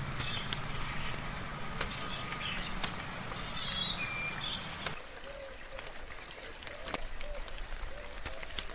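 Soft rain falling, with sharp individual drips, while several birds chirp and call. About halfway through a low steady hum drops out, and a lower repeated call and some high chirps take over.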